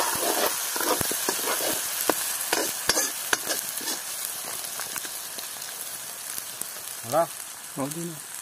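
Chopped onions, tomatoes and chillies sizzling in hot oil in an iron kadhai, with a metal ladle scraping and knocking against the pan, the knocks mostly in the first four seconds.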